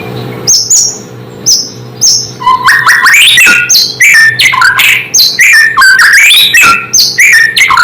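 White-rumped shama (murai batu) singing: a few short, high whistles, then, from about two and a half seconds in, a fast, loud run of varied whistled notes that leap up and down in pitch. This is the bird's full territorial song, used as a lure to provoke rival shamas.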